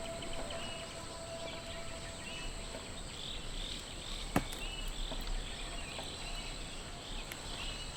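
Outdoor ambience: a steady hiss with short high chirps repeating through it, and one sharp click a little past the middle.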